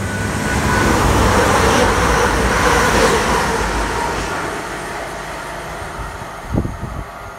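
Class 222 Meridian diesel multiple unit running through the station at speed without stopping: a rush of wheels on rail and engine noise that swells to its loudest about two seconds in, then fades as the train draws away.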